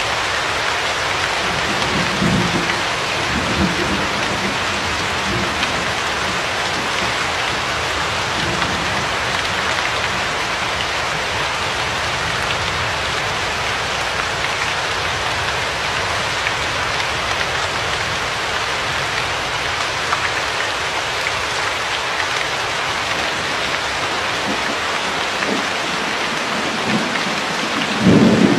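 Steady heavy rainfall, an even hiss of drops. There are faint low rumbles of thunder a couple of seconds in, and a louder roll of thunder sets in right at the end.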